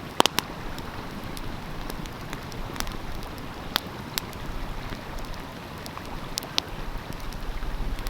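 Wood fire crackling with sharp pops, a few loud ones close together just after the start and others scattered singly through the rest, over the steady rush of a flowing stream.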